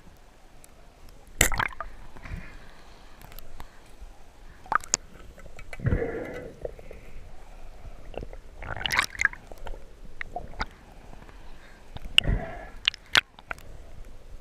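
Water sloshing and gurgling, with three louder surges about three seconds apart and scattered sharp clicks.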